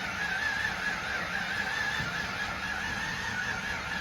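Starter cranking the 1999 Ford Explorer's single-overhead-cam V6 without it catching, with a wavering high-pitched whine over a steady grinding.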